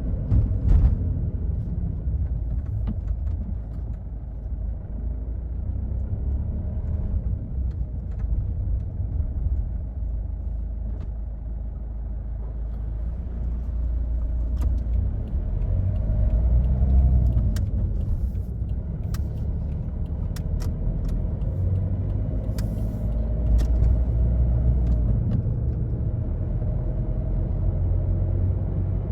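2005 Toyota Yaris diesel driving along: a low engine drone with tyre and road rumble, heard from inside the cabin. The engine note rises and then falls once about halfway through, and a few light clicks come in the second half.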